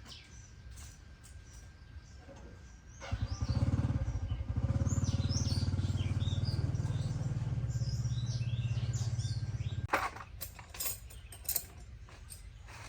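A small engine starts up about three seconds in, runs steadily for about seven seconds and cuts off abruptly. Birds chirp throughout.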